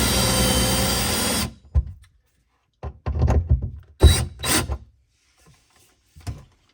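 Cordless power drill driving a screw into a wooden cabinet wall, its motor whine rising in pitch and then stopping abruptly about a second and a half in. Several knocks and clunks follow as the drill and bracket are handled.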